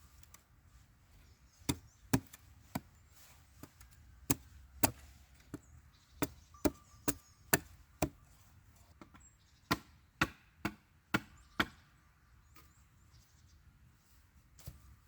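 Wood being chopped with a blade: a series of sharp single chopping strikes, irregularly spaced, with a short pause midway. The strikes stop a few seconds before the end.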